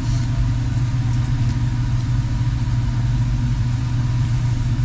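Steady low mechanical drone with a thin, constant higher hum over it, unchanging throughout.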